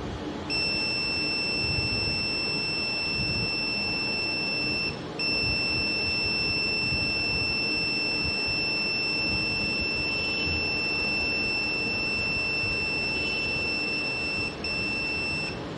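Obturation pen's heated gutta-percha cutter tip beeping with one steady, high-pitched, dominant tone while it cuts a gutta-percha point, broken by two brief gaps, about five seconds in and near the end. The long beep comes with a slow cut, as the tip heats only to about 180 degrees.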